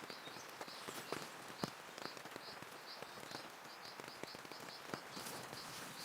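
Rain falling steadily, with scattered sharp taps of drops, and a high-pitched chirp repeating about three times a second.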